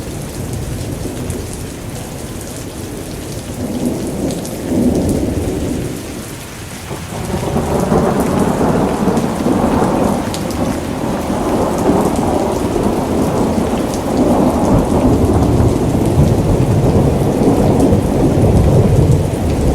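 Steady rain falling, with rolling thunder. After a brief lull about a third of the way in, a long, louder rumble of thunder builds and keeps rolling.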